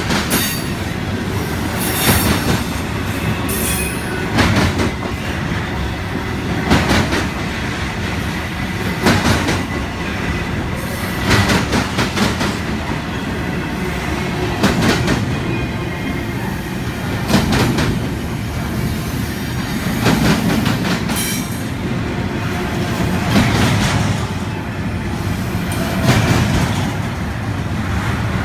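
Double-stack intermodal freight cars rolling past at close range: steel wheels clack over the rail joints in groups of heavy knocks about every two seconds as each set of trucks goes by, over a steady rumble.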